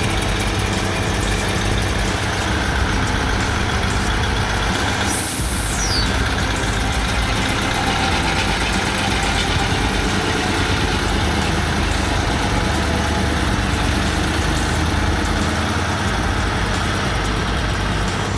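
Heavy truck engine running steadily under load. About five seconds in there is a brief high hiss that falls in pitch.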